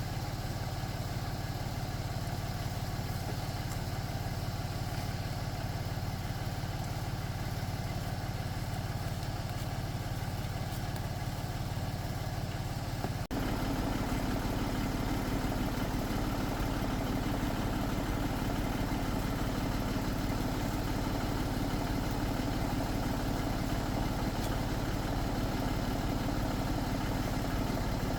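Tractor engine running steadily. About halfway through, the sound changes abruptly to a somewhat louder, fuller engine note.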